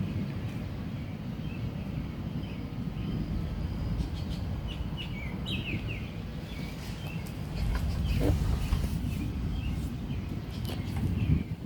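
Small birds chirping repeatedly in quick short notes, over a steady low outdoor rumble that swells briefly about eight seconds in.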